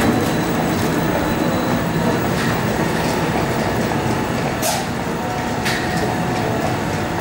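Electric commuter train running on the rails: a steady rumble of the wheels, with a few sharp clicks from the track.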